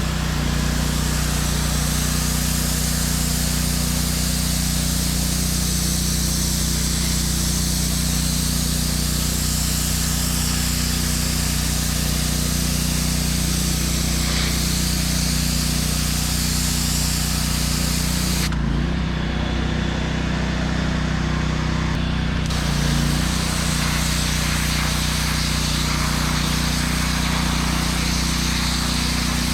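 Pressure washer running: the engine hums steadily while the wand sprays water onto concrete with a constant hiss. The spray stops for about four seconds in the second half, with the engine still running, then starts again.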